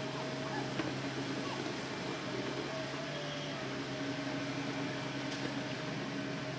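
Hitachi Zaxis excavator's diesel engine running at a steady speed: an even, unchanging hum with a low drone over a steady hiss.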